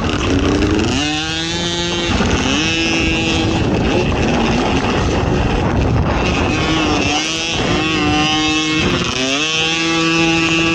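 ATV engine racing off-road, revving up repeatedly as it accelerates and then holding its pitch, with wind rushing over the microphone.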